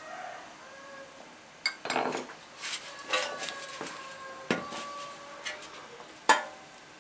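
Hard metal objects clinking and knocking against one another in a series of sharp strikes, a few of them ringing briefly. The loudest strike comes near the end.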